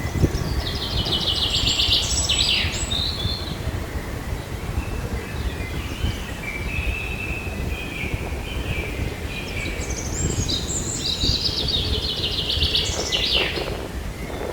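Birds singing: a rapid high trill near the start and again about ten seconds later, with thinner calls in between, over a steady low rumble of wind on the microphone.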